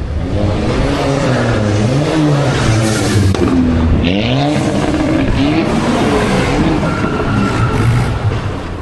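Car engine revved hard, its pitch rising and falling again and again, with tyres squealing and spinning, as in a burnout or donuts.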